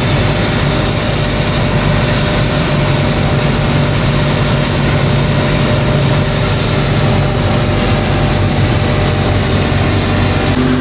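Heavy construction machinery engine running steadily, a constant low hum with steady tones over a continuous noise.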